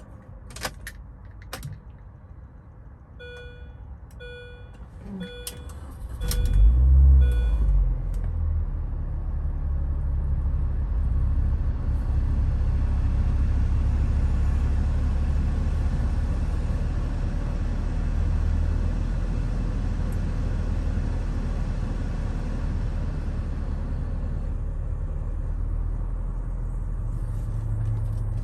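A few clicks, then a run of electronic chimes, then the 2006 Mini Cooper S's supercharged 1.6-litre four-cylinder cranks briefly and catches with a loud flare about six and a half seconds in. It settles into a steady cold-start fast idle.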